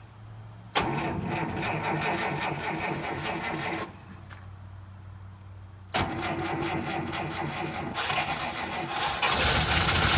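1950 Buick Super's straight-eight engine cranked cold on the starter in two bursts of about three seconds each, each starting with a click, then catching and running near the end. It is a cold start after a Stromberg carburetor rebuild.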